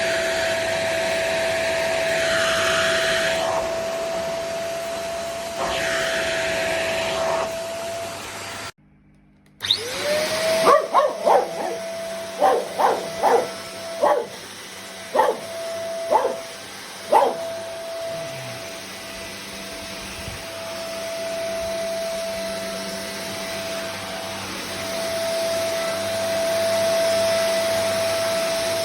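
Cordless stick vacuum motor running with a steady whine and rushing air; its floor head's brush roll no longer spins. About nine seconds in it cuts out for about a second, then spins back up with a rising whine. Over the next several seconds a run of about eight short, loud sounds rises above the motor.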